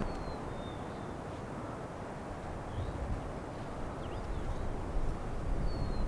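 Outdoor ambience: a low steady rumble with a few faint, high bird whistles, two short falling ones near the start and near the end.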